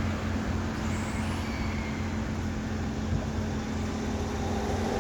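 Steady road traffic noise: a low rumble of passing motor vehicles.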